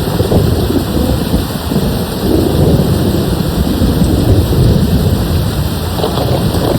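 Steady heavy rain with a low rolling thunder rumble that swells and ebbs throughout.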